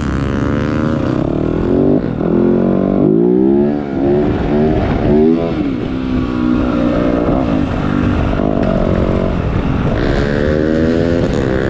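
Motocross bike engine revving, its pitch climbing and dropping several times as it accelerates and shifts, then running steadier near the end.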